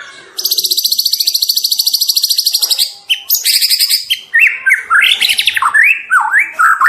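Juvenile white-rumped shama singing: a long, fast, high trill lasting over two seconds, a second shorter trill, then a run of varied whistled notes sliding up and down.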